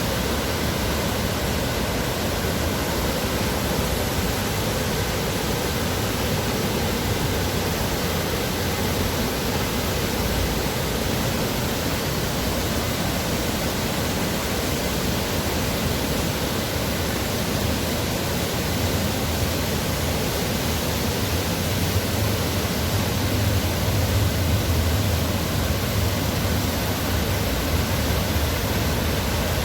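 Steady rush of water pouring down the Dubai Water Canal's man-made waterfall, an even, unbroken noise. A low rumble underneath grows a little louder over the last several seconds.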